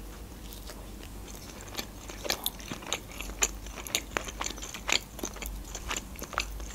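Close-up chewing of a bite of meat pizza: a run of short, irregular mouth clicks.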